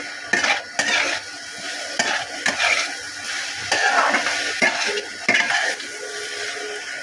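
Mushrooms and potatoes in a yogurt-spice marinade sizzling as they fry in a pan, with a spoon stirring and scraping against the pan in repeated strokes.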